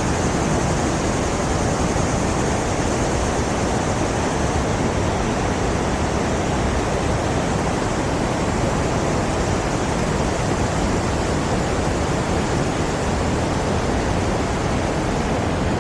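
Niagara River rapids rushing below the bridge: a steady, unbroken roar of white water.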